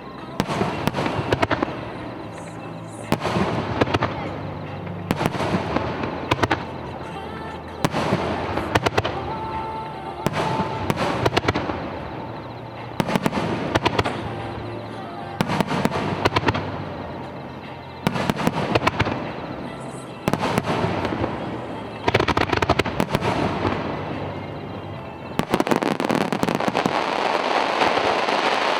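Aerial fireworks bursting in quick succession, a sharp bang every second or two, each trailing off in crackle; about 25 seconds in the bursts give way to a dense, continuous crackling.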